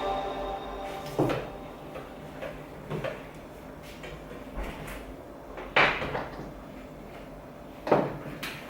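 Kitchen cupboard doors and their contents being handled: a handful of separate knocks and bumps, the loudest about six and eight seconds in.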